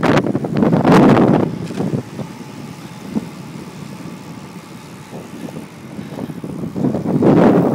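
Wind and road noise rushing over the microphone of a bike moving along a highway. It is loud at first, dies down after about two seconds, and surges again near the end.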